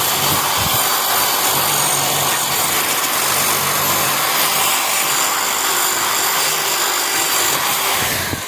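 A rotary power tool's spinning abrasive wheel held against the steel pliers, a steady loud grinding noise that dies away just before the end.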